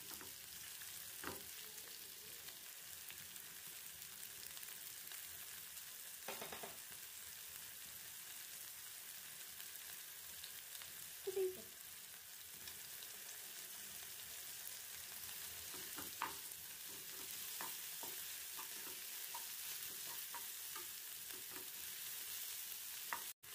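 Sliced onions sizzling softly in oil and butter in a non-stick frying pan, with a spatula now and then scraping and tapping the pan as they are stirred. The sound drops out for an instant near the end.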